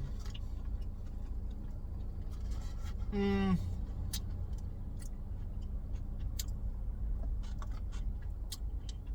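A person's short hum about three seconds in, falling in pitch, voiced while deciding on a rating. It sits over a steady low rumble with scattered faint clicks.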